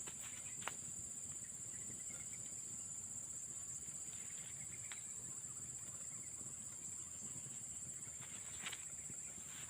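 Steady high-pitched drone of insects such as crickets, with faint chirps over it and a few sharp clicks, one early, one in the middle and one near the end.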